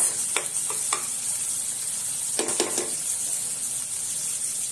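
Prawns, onion and butter sizzling steadily in a nonstick pan, with a few knocks of a steel spatula against the pan as they are stirred.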